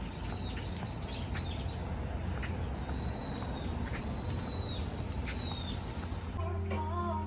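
Wild birds calling with short high whistles and chirps, several gliding downward, over a steady low background rumble. Music comes in near the end.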